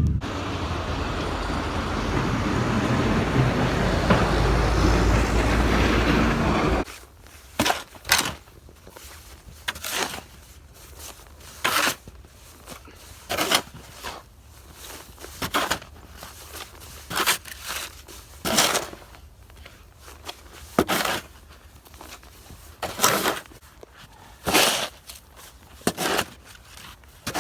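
A motor vehicle driving by on a snowy road with a steady rumble, which cuts off about seven seconds in. Then comes a series of short crunching scrapes in snow, one every second or two.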